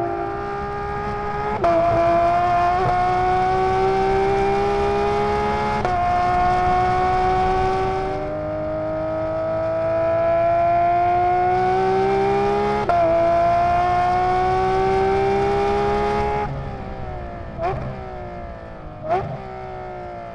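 Porsche 992 GT3's 4.0-litre flat-six, through prototype street headers and a loud muffler, pulling hard up through the gears on track. The pitch climbs and snaps down at each quick upshift. Near the end it lifts off and drops in pitch, with two sharp throttle blips on the downshifts.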